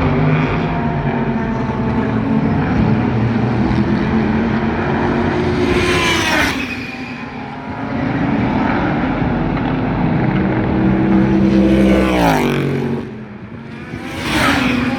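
Super GT race cars running at speed past the trackside: three cars pass close by about six seconds in, near twelve seconds and near the end, each engine note dropping sharply in pitch as it goes past. Other cars can be heard running elsewhere on the circuit between the passes.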